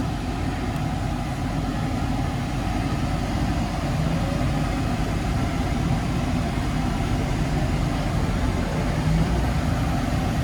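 Kia Bongo III cargo truck's engine running and road noise heard from inside the cab as the truck is driven, a steady low drone that grows a little louder partway through. The engine is described as very quiet and the transmission as very smooth.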